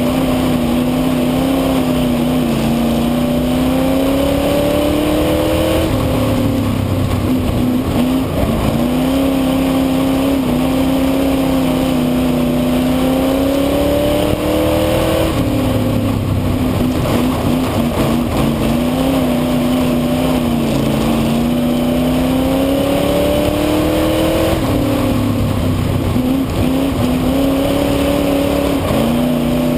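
Ford V8 speedway saloon car engine heard from on board at race pace. The revs climb steadily along each straight and drop sharply as the driver lifts for the turns, about every nine seconds, lap after lap.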